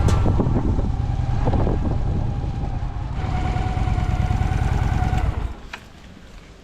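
Honda VT750S V-twin motorcycle engine idling with a steady low rumble, then switched off about five seconds in.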